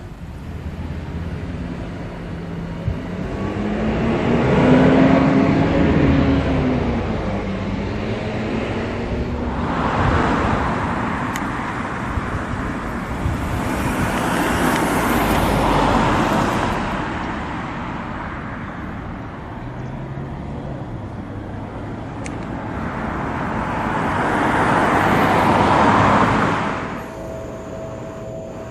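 Traffic passing by: vehicles go past one after another, each swelling and then fading, about four passes in all, the first with an engine note that rises and falls in pitch.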